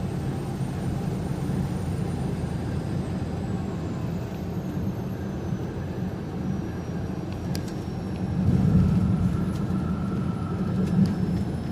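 Steady engine and road noise inside a moving truck's cab at highway speed, with a low rumble that swells briefly a little past the middle and a few faint clicks near the end.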